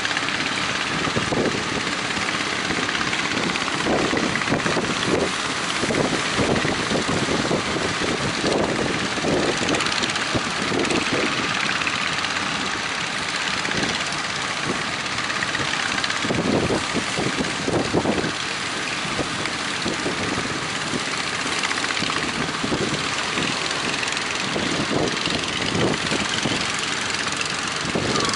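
Fishing boat engines running steadily under a dense hiss of wind.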